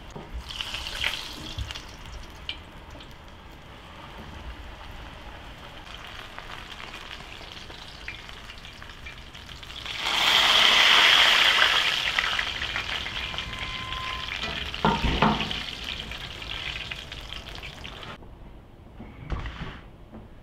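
Kutab frying in hot oil in a metal pan: a steady sizzle that flares up loudly about ten seconds in, as a flatbread is turned over in the oil, then slowly settles. A few knocks against the pan come a little later, and the sizzle stops near the end.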